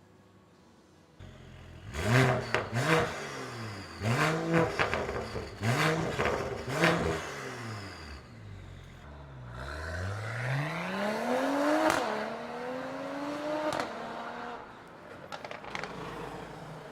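Mercedes-AMG CLS53's turbocharged inline-six revved through an aftermarket exhaust: the engine comes in about a second in, is blipped five times in quick rising-and-falling revs, then is revved in one long climb that cuts off sharply with a crack. A few pops and crackles follow as the revs settle.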